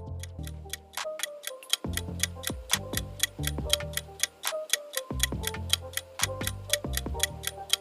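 Clock-ticking countdown sound effect, about four to five quick ticks a second, over background music with a low bass that comes and goes in blocks.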